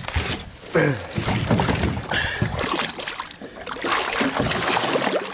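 Water splashing and sloshing beside a boat as a sturgeon is held in the river and released, with a few brief voice fragments.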